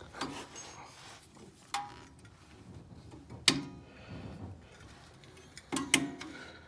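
Hand tools working on car brake parts: a few scattered metal clicks and knocks, one with a brief ring about two seconds in, and two sharp knocks close together near the end.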